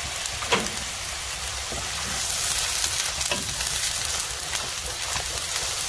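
Crushed ginger and garlic sizzling in hot oil in a frying pan, stirred with a wooden spoon. A steady frying hiss that grows a little louder about two seconds in, with a few light scrapes of the spoon.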